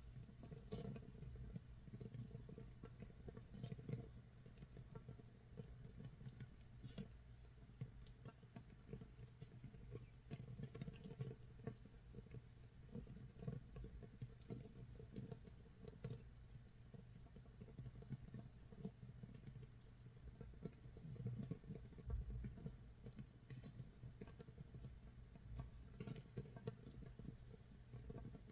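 Makgeolli base brew (mitsul) actively fermenting in an earthenware crock, about 24 hours in: countless tiny bubbles popping at the surface in a faint, irregular crackle, like light rain or rice crust toasting in a pan.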